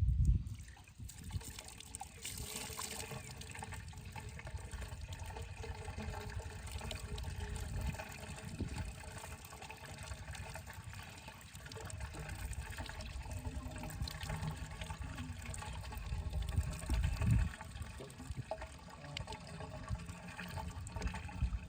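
Water running and pouring steadily, over a low rumble.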